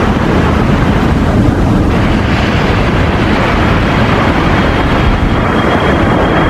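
Jet airliner engine noise: a loud, steady rush of engine sound, with a thin high whine coming in near the end.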